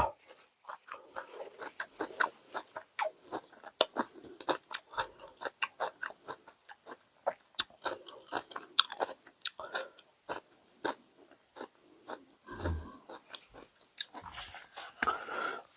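A man chewing a large, overstuffed lettuce-wrap mouthful of food close to the microphone: irregular wet smacking and crunching clicks, several a second.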